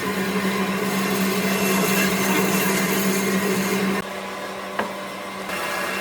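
An electric power tool's motor running steadily with a hum. About two-thirds of the way through it cuts off abruptly, leaving quieter workshop noise and a single click.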